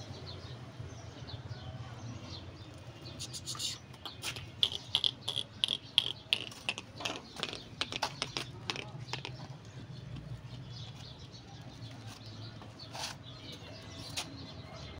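Small birds chirping in quick short notes over a low steady hum, with a dense patter of sharp clicks through the middle.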